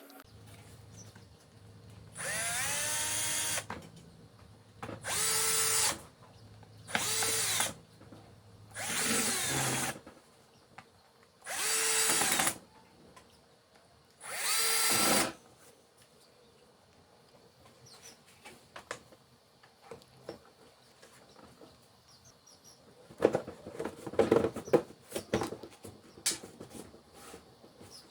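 Power drill run in six short bursts of about a second each, its motor pitch rising as it spins up each time. Near the end comes a short clatter of knocks.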